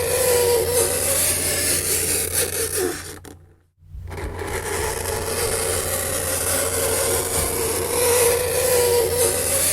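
Fingernails scraping on a chalkboard: a continuous harsh rasp with a wavering squeal, over a steady low hum. It fades out for a moment about a third of the way in and then starts again.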